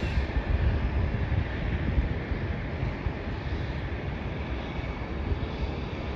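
Wind buffeting the microphone over a steady, distant airport rumble, gusting unevenly in the low end.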